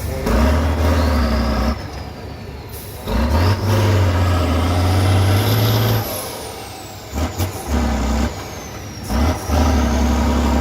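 A competition trial truck's diesel engine revving hard in repeated bursts of throttle: a long rev, a longer sustained one, two short blips and a final long rev. A thin high whistle climbs and falls above the engine.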